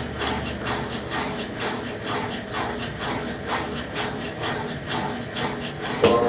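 Brastemp Ative BWC10 top-loading washing machine agitating during the rinse, water and clothes sloshing in an even rhythm of about three swishes a second. Near the end a louder motor whine starts suddenly, rising in pitch.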